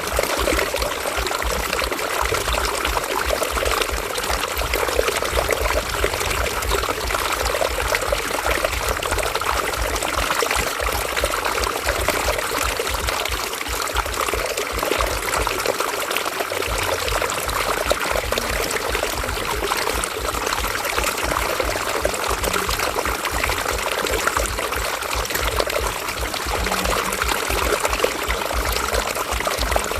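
River water flowing and trickling steadily over rocks, a continuous babbling rush with no pauses.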